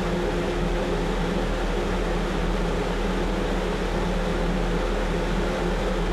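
A powered wind machine running steadily for a roof-tile wind test: an even rushing blast of air over a constant low hum.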